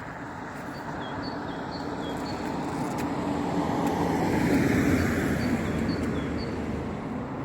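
A car passing by: a steady rushing noise that slowly grows to its loudest about five seconds in, then fades. A small bird chirps over it, a string of short high notes about twice a second.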